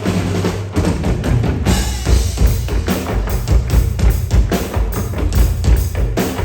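Live stage percussion: drums and other percussion beating a fast, driving rhythm over a deep bass line.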